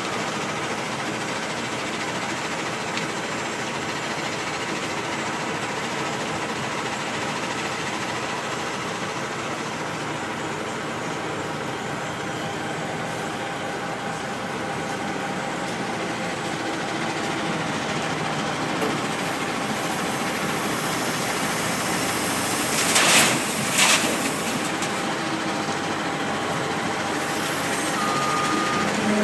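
Dump truck engine running steadily, with two short sharp hisses about three-quarters of the way through. A reversing beeper starts near the end.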